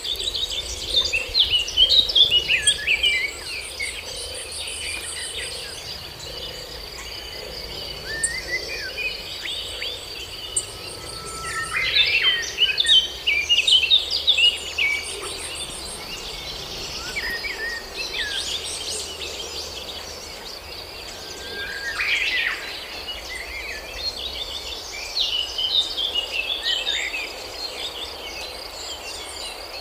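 Birds singing in repeated bursts of quick chirping notes over a steady, high-pitched insect drone.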